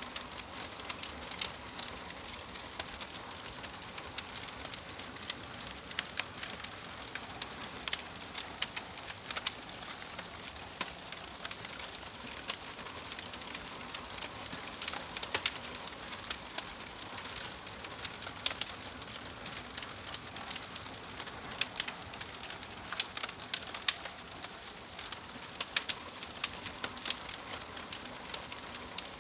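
Fire crackling steadily: constant soft hiss with irregular sharp pops and snaps, several a second.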